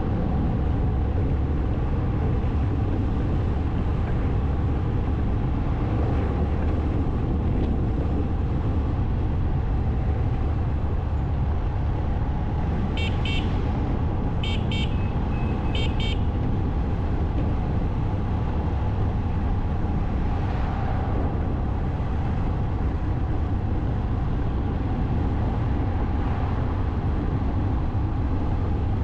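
Steady motorcycle riding noise, a low engine and wind rumble. About halfway through, a vehicle horn gives a few short high beeps.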